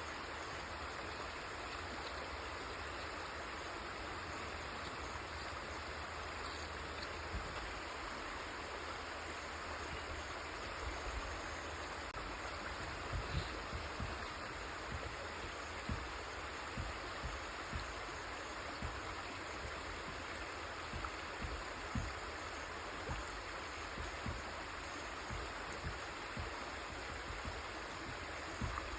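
River water flowing steadily, an even rushing sound, with short low thumps now and then from about seven seconds in.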